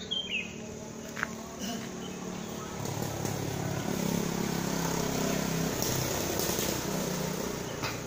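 Birds calling in trees: a short falling chirp at the start and a few sharp brief calls, over a steady high insect drone. A low engine hum swells up in the middle and fades toward the end.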